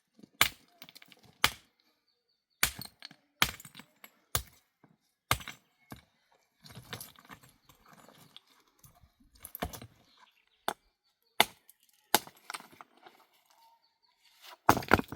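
A series of sharp cracks and knocks, irregular at roughly one a second, with a scraping rustle between them in the middle and a quick cluster of hits near the end.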